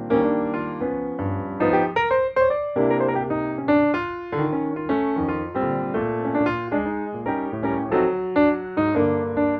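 Background piano music: a solo piano playing a gentle melody of struck notes that ring and fade one after another.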